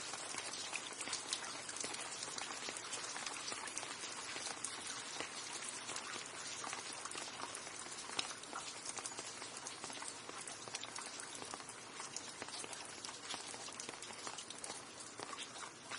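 Steady rain, a dense hiss of many separate close drops ticking on a surface, easing slightly toward the end.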